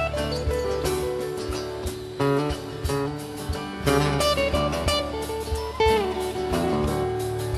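A rock band plays an instrumental passage: a guitar plays a melodic lead line over bass and a steady drum beat.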